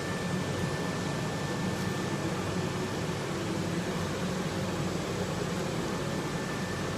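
Steady machinery hum and fan-like noise, with a low hum and a faint high whine that stay unchanged throughout.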